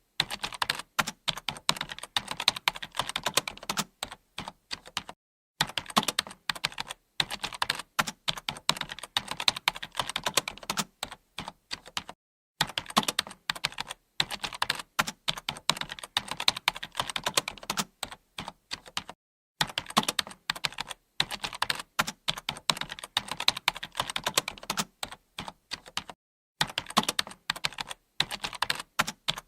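Continuous typing on a computer keyboard: rapid runs of key clicks broken by short pauses every few seconds.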